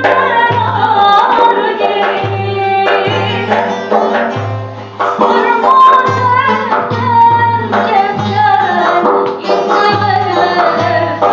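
Female voice singing an Aegean Turkish folk song (türkü) with an instrumental accompaniment and a steady low drum beat.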